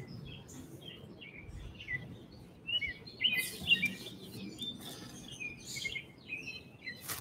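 Small birds chirping: a run of short, high calls and quick twitters, with one sharp click near the end.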